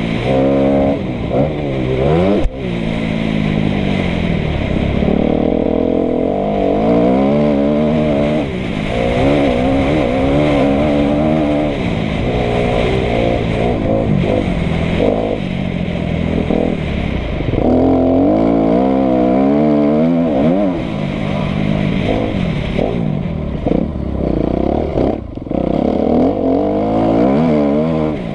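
Kawasaki KX250F's single-cylinder four-stroke engine revving hard over and over, its pitch climbing and then dropping back as the throttle opens and shuts. A single sharp knock comes about two and a half seconds in.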